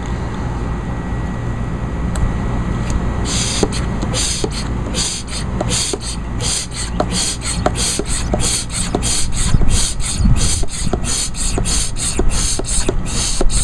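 Hand pump of a Liquivac oil extractor being worked to draw a vacuum, a rapid run of hissing air strokes, about two a second, starting about three seconds in.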